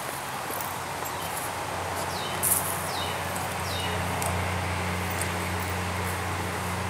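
A bird gives three short falling chirps about two to four seconds in, over a steady low hum and outdoor background noise, with a sharp click about halfway through as a person walks on dirt and leaf litter.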